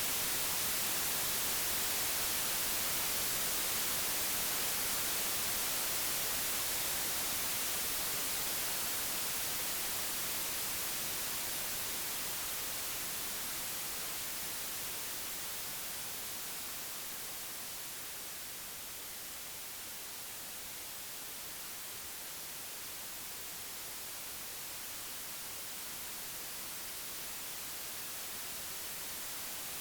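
Synthesised white noise: a steady hiss, heavy in the highs, that slowly fades quieter over the first twenty seconds and then swells back a little.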